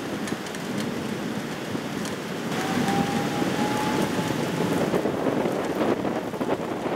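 Heavy rain pouring down in a cloudburst, a steady hiss that grows louder about two and a half seconds in, with scattered sharp drip ticks near the end. A faint thin tone is heard for about two seconds after the rain grows louder.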